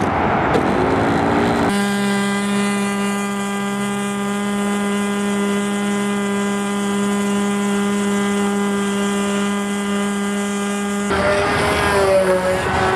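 Control line model airplane's small engine running at full throttle in flight: its buzz rises in pitch for about a second as the plane takes off, then holds one steady high note. Near the end the sound changes abruptly to a rougher, noisier buzz whose pitch wavers.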